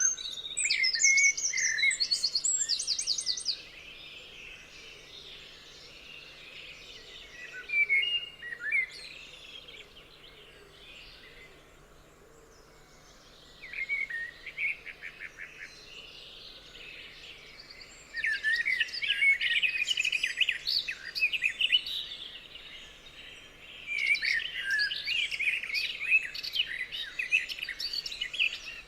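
Several songbirds singing and chirping in a forest: bursts of quick chirps and trills that come in clusters, thickest in the last third, with quieter gaps between.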